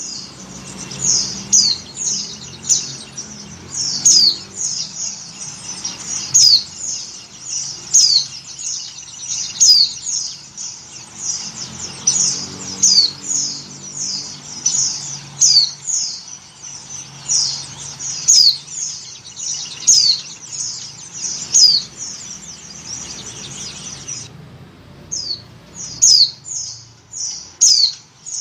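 Pleci (white-eye, Zosterops) chirping in quick runs of high, downward-sweeping notes, with a short break about 24 seconds in: the call of a female in breeding condition calling for a male.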